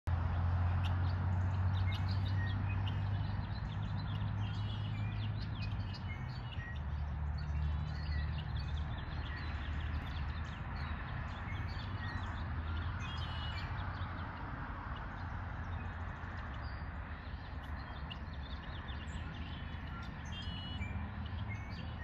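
Small birds chirping here and there over a steady hiss of outdoor noise and a low rumble that is loudest in the first half.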